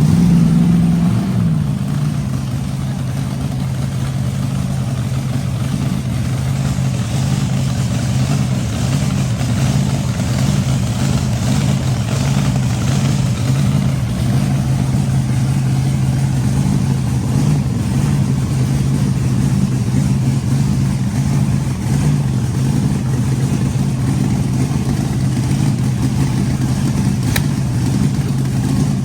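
Supercharged 377 cubic inch small-block Chevy V8 running on alcohol in a drag car. It revs briefly in the first second or so, then settles into a steady, loud fast idle.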